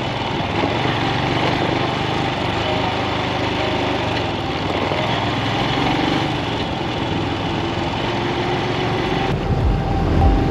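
Motorcycle engine running steadily under way, mixed with a broad rushing noise. Near the end the high rushing part cuts out suddenly.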